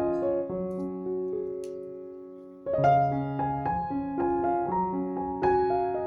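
Background piano music: a gentle melody in which a held chord fades away, then the notes start again about two and a half seconds in.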